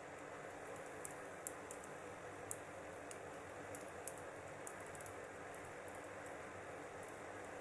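Wood fire crackling: a steady low hiss with scattered sharp pops of the burning wood, the loudest about two and a half seconds in.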